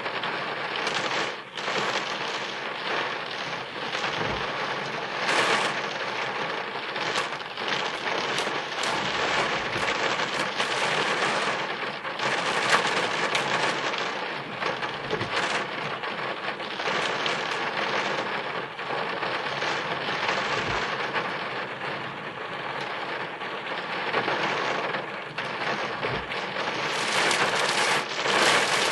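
Rain falling on a car's roof and windscreen, heard from inside the car: a steady dense patter with sharp individual drop hits all through it.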